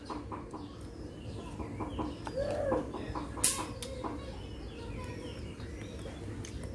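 Birds calling in the background with hen-like clucks, and scattered small clicks. A short, loud burst of hiss comes about three and a half seconds in.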